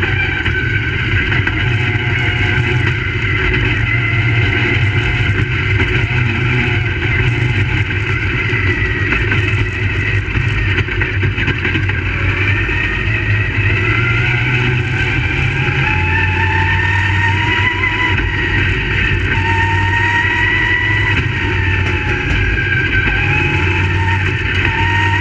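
Crate Late Model race cars' V8 engines running continuously, their pitch rising and falling as they go around the track.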